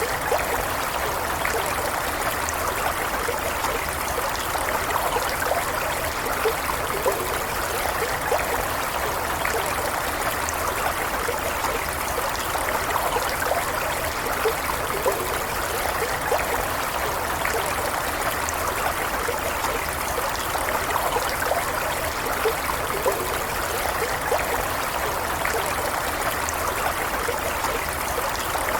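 Small stream flowing steadily, water trickling and babbling over stones with a dense patter of small splashes.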